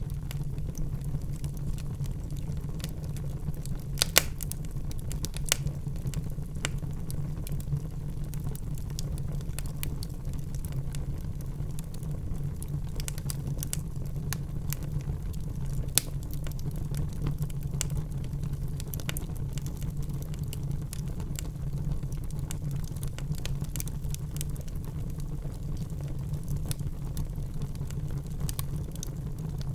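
Wood fire crackling in a fireplace: irregular sharp pops and snaps over a steady low rumble, the loudest pops about four seconds in and again near sixteen seconds in.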